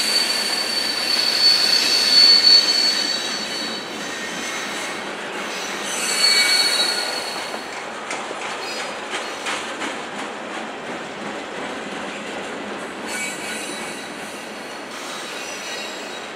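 Norfolk Southern freight train of flatcars loaded with steel pipe rolling past, its wheels squealing in a thin high tone for the first few seconds and again briefly about six seconds in. Wheel clicks over the rails and a steady rumble of the cars run throughout, gradually getting a little quieter.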